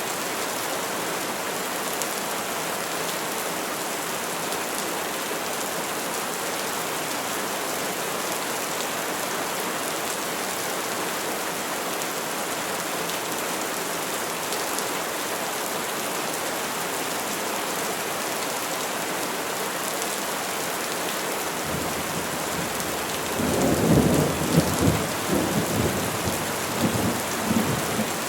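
Steady rain falling on trees, an even hiss. About 23 seconds in, a roll of thunder rumbles in with several swells and dies away near the end.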